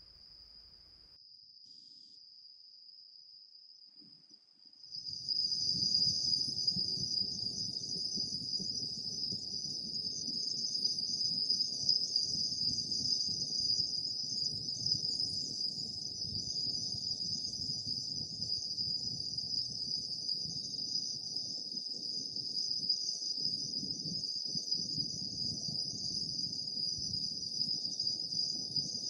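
Night insects trilling steadily in a high, unbroken chorus. About five seconds in the chorus grows louder and a low rumbling background comes in under it.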